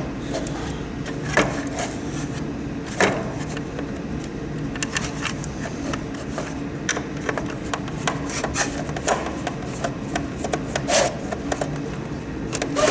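Humidifier parts being handled and taken apart by hand: scattered light clicks and knocks, a few seconds apart, over a steady low hum.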